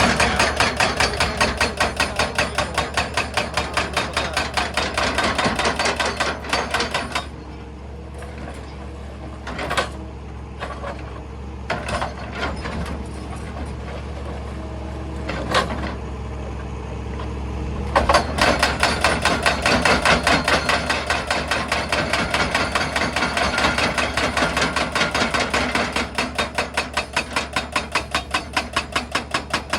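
Excavator-mounted hydraulic breaker hammering rock in rapid, evenly spaced blows, several a second, over the steady low hum of the machine's engine. About seven seconds in the hammering stops and there are only scattered single knocks until it starts again about eighteen seconds in.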